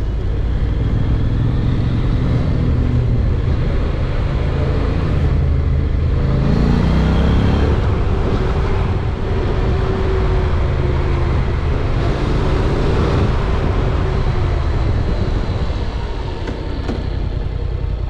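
Honda NC750X's parallel-twin engine running under way on a mountain pass road, revving up once about six seconds in, with a steady rush of noise over it.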